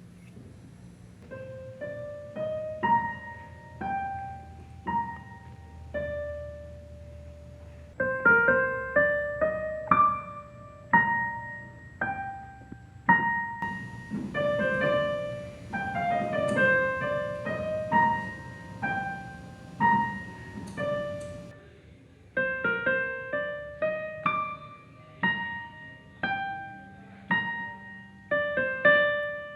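Piano music: a slow melody of single struck notes that fade after each strike, growing fuller about eight seconds in, with a short pause a little past the two-thirds mark before it goes on.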